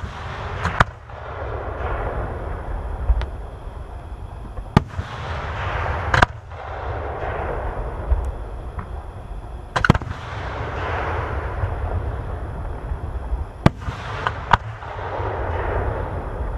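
Aerial firework shells bursting: sharp bangs every few seconds, about six in all, each followed by a crackling hiss that swells and fades over a second or two.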